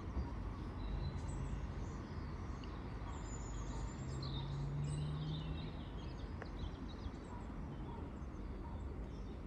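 Steady low background rumble with a few faint, high bird chirps in the first half, and a low steady hum that comes in twice.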